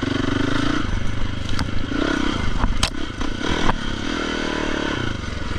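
Dirt bike engine running on a trail, its pitch rising and falling as the throttle opens and closes, with a few sharp clicks and some clatter over it.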